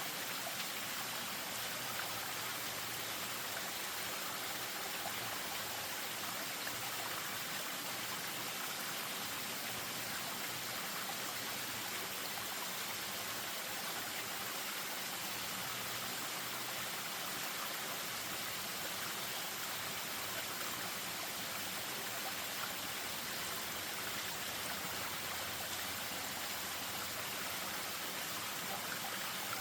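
Spring-fed stream spilling over a small waterfall: a steady, unbroken rush of running water with no pauses or separate splashes.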